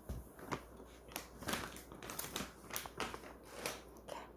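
Labrador retriever crunching a hard dog treat: irregular sharp crunches, a few a second.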